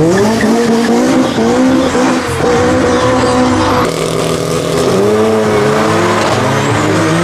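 Car engines revving hard as cars accelerate away. The engine note climbs steeply at the start, then holds and rises again in steps as they change gear.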